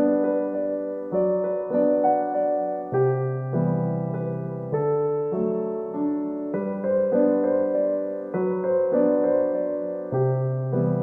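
Background music: gentle piano playing sustained chords that change about once a second.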